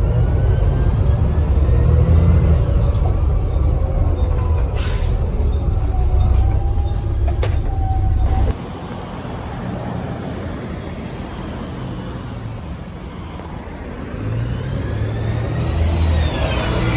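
Volvo B7TL bus's six-cylinder turbodiesel heard from inside, pulling hard with a thin turbo whistle rising and falling over the rumble. A short hiss of air comes about five seconds in. The engine note drops abruptly a little past halfway, then builds again with the turbo whistle rising near the end.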